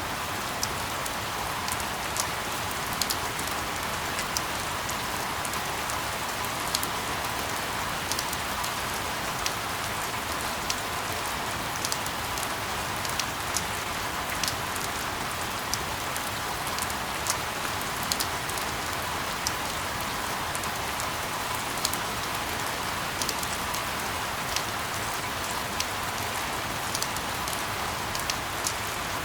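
Steady rain used as sleep white noise: an even hiss with scattered sharper drop ticks landing irregularly.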